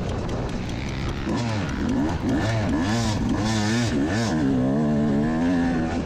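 Motocross dirt bike engine at race speed, revving up and down over and over with the throttle and gear changes.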